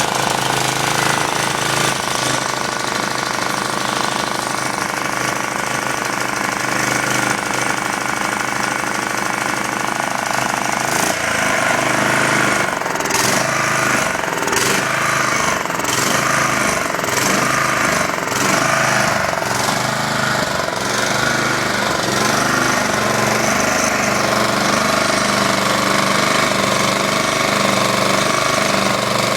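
Small four-horsepower Honda engine on a self-propelled walk-behind lawn mower running steadily, still warming up after a hard cold start. Its note changes about eleven seconds in.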